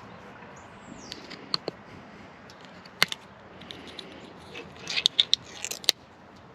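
Hand grease gun being handled and worked: a short falling squeak, then scattered sharp metallic clicks that bunch up into a quick run of loud clicks near the end.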